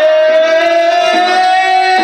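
Live reggae band playing, while a male singer holds one long note that slides up at the start and stays steady.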